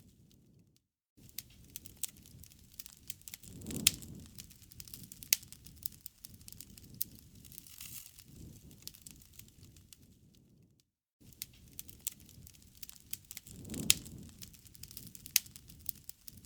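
Wood campfire crackling and popping over the low rush of the flames, with a louder sharp pop about four seconds in and again near the end. The sound drops out to silence for a moment twice, about ten seconds apart.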